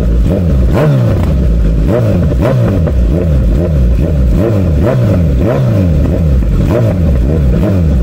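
Kawasaki Z900 inline-four engine through an Akrapovic titanium full-system exhaust, loud, its revs rising and falling over and over about twice a second.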